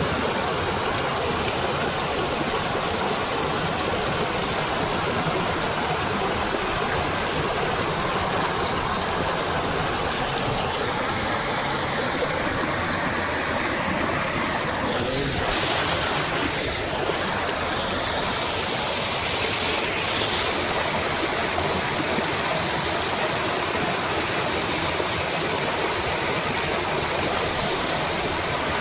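Fast-flowing water at a dam rushing steadily, an even, loud wash of noise.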